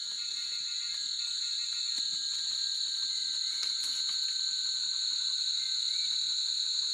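Insects chirring in a continuous chorus: one steady, high-pitched trill that never breaks.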